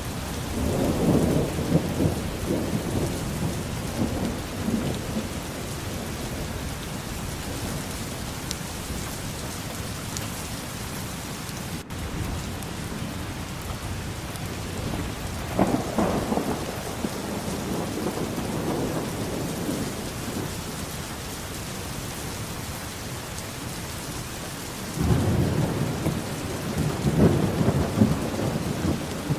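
Steady rain falling, with thunder rumbling three times: near the start, about halfway through, and near the end.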